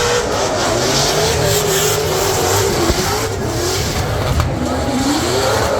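Drift cars running on the track, their engines revving up and down in a wavering, repeated rise and fall of pitch.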